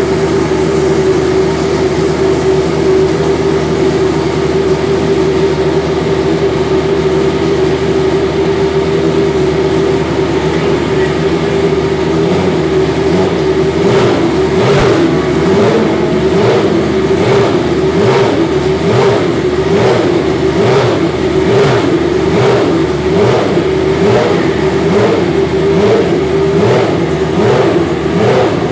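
Benetton Formula One car's racing engine running at a steady fast idle, then from about twelve seconds in blipped in short, even revs roughly once a second.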